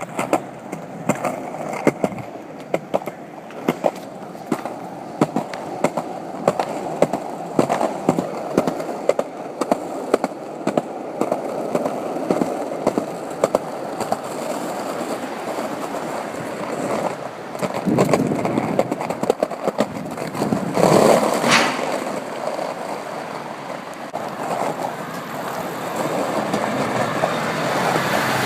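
Skateboard wheels rolling on pavement, with a sharp clack every second or so as they pass over sidewalk joints. There is a louder swell of noise about three-quarters of the way through.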